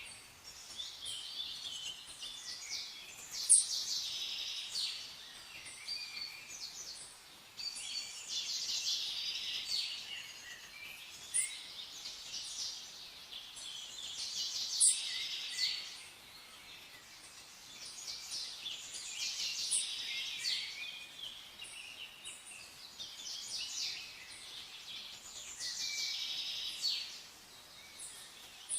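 Many small birds chirping and singing together: a dense chorus of high, rapid chirps that swells and thins out every few seconds.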